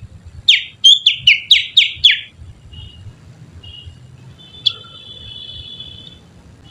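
Finger whistle imitating the call of a Kutilang Sutra (bulbul), made with the little finger: a fast run of about seven sharp downward-sweeping notes, then a few softer short whistles and a longer steady one in the second half.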